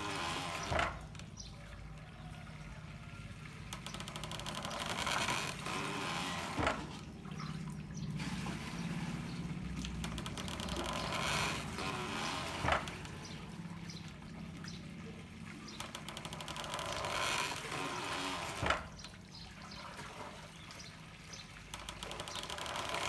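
Handmade water-powered corn mill working in its cycle: a surge of pouring water, then a sharp knock, about every six seconds (four knocks), over steady trickling water from bamboo pipes.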